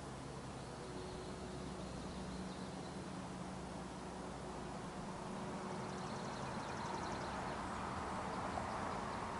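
Distant diesel locomotives idling: a faint steady low hum. Faint high chirps sit above it, and a soft rush of noise swells in the second half.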